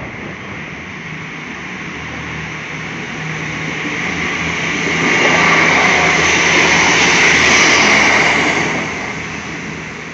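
Regional passenger train passing over a level crossing: its wheels and running noise grow louder, are loudest through the middle of the pass, and fade away near the end.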